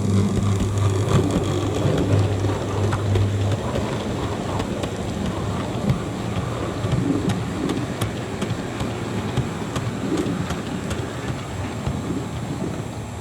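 OO gauge model train running on layout track: a continuous rumbling of wheels and motor with scattered sharp clicks. A steady low hum stops about three and a half seconds in.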